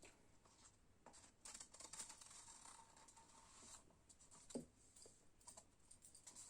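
Near silence with faint scratchy scraping and a few light clicks, from small handling of paint cups.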